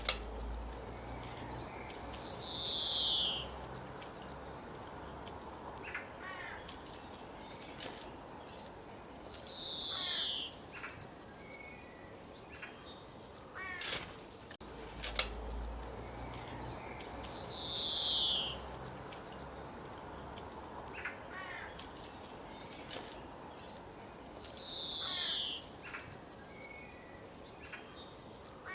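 Birds chirping: runs of rapid high chirps and a louder falling call that come back about every seven to eight seconds, over a steady background hiss. The same stretch of calls repeats about halfway through, as a looped recording does.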